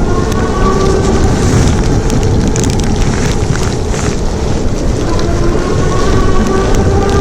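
Rain and wind rushing over the microphone on a moving electric bike in wet weather, a loud steady noise with faint steady tones underneath.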